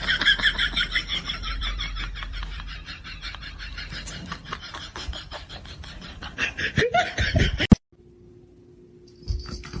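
Rapid, high-pitched laughter in quick repeated pulses, loudest at first and fading, with a couple of louder bursts before it cuts off suddenly near the end.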